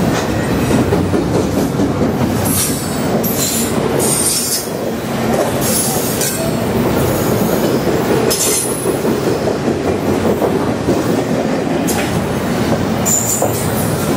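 Double-stack intermodal freight train's well cars rolling past close by: a steady loud rumble of steel wheels on rail, broken several times by brief high-pitched wheel squeals.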